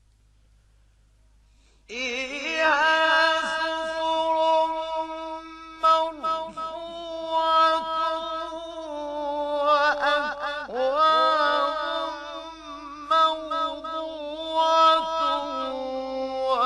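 A male Quran reciter chanting in long, drawn-out melodic phrases with ornamented turns, starting about two seconds in after a pause.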